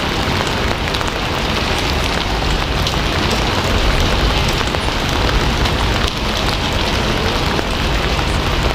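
Steady, heavy rain falling on a surface, a dense even hiss with scattered drop ticks.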